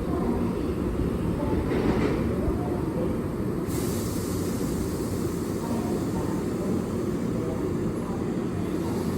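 Keihan 7000-series electric train at the station platform: a steady low rumble of train and station noise, with a brief hiss about two seconds in and a thin high hiss that starts suddenly about four seconds in.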